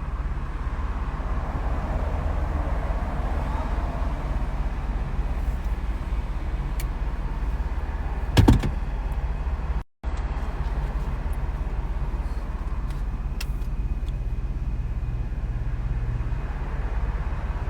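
Steady low rumble of a car driving along, with one loud thump about eight and a half seconds in.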